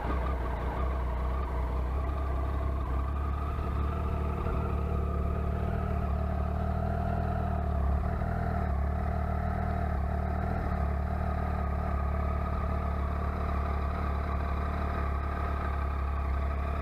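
Triumph Tiger XCX's three-cylinder engine idling steadily through its stock exhaust, a pretty quiet, even note.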